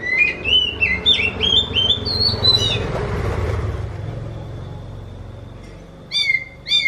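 Oriental magpie-robin (kacer) singing: a quick run of about ten short, whistled notes for nearly three seconds, then after a pause two slurred, bending notes near the end. Its song is known for sounding like a kitten's mewing.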